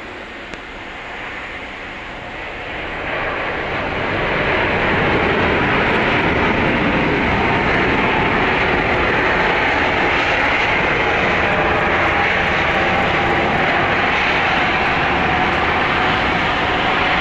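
Airbus A380-861's four Engine Alliance GP7200 turbofans on landing: jet noise that swells over the first few seconds, then holds loud and steady.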